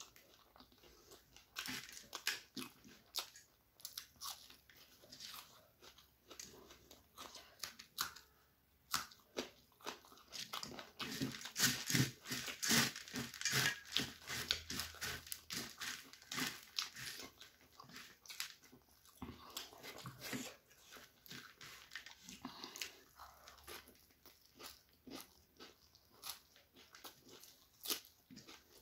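Close-miked chewing of crunchy puffed rice (muri) mixed with chicken curry: a fast run of crisp crunches, densest and loudest about halfway through.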